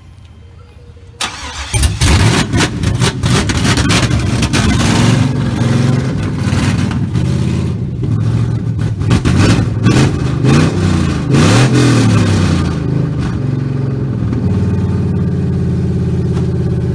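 Chevrolet Silverado's V8, freshly fitted with a new cam and headers, starting about a second in and catching at once. It is revved several times, the pitch rising and falling, then settles to a loud, steady idle near the end.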